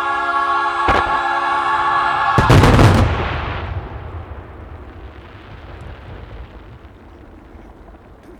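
Fireworks shells bursting: one boom about a second in, then a rapid cluster of loud booms about two and a half seconds in, over the last held chord of the show's music. After the cluster the rumble fades away over several seconds.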